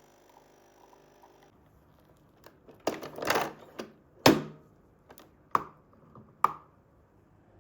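A handful of sharp knocks and clatters of hard objects, about seven in a few seconds, the loudest near the middle; the last two ring briefly like a clink.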